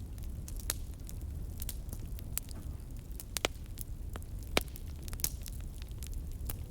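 Wood fire burning in a fireplace: irregular sharp crackles and pops over a steady low rumble, with the loudest pops a little after three seconds and about four and a half seconds in.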